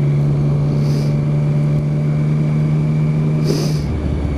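Three-cylinder motorcycle engine fitted with an Arrow exhaust can, running at a steady pitch under way, then dropping to a lower note near the end as the revs fall. Two short hisses, about a second in and just before the drop.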